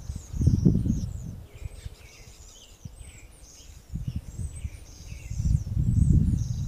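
Small songbirds singing and chirping in quick, high notes throughout. Twice, about half a second in and again near the end, low rumbling noise comes over them and is louder than the birds.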